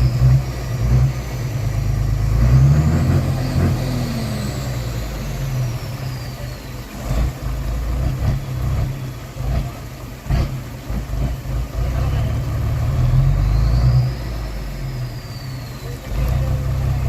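Heavy truck engine labouring and revving in deep mud, a steady low rumble that swells and eases. A high whistle rises and falls twice, and there are a couple of sharp knocks near the middle.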